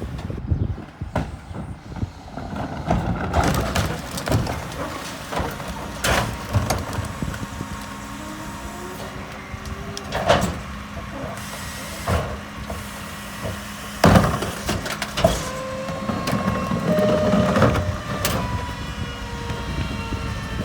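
Mack MRU garbage truck with a McNeilus rear-loader body working: diesel running, a steady hum joining about eight seconds in, and rising and falling whines over it. About five sharp bangs and knocks are spread through it.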